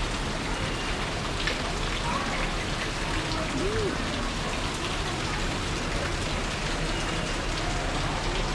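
Steady rushing of falling water, an even hiss without a break, with a faint short call about four seconds in.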